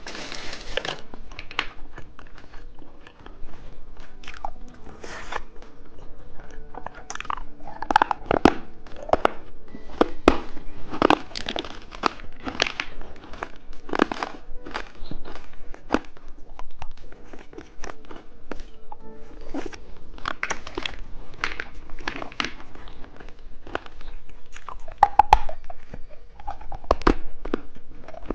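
Close-miked eating of candy snacks: irregular crunching, biting and chewing throughout, over background music.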